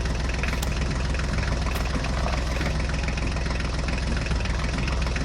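Tractor engine running steadily with a strong low engine note, the engine sound of the mini tractor pulling the trolley.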